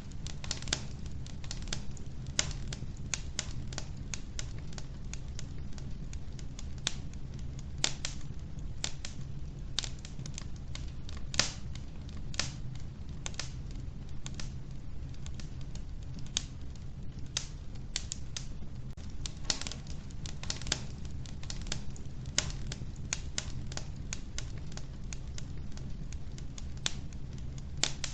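Wood fire burning in an old wood-burning stove, crackling with irregular sharp pops and snaps, several a second, over a steady low rumble.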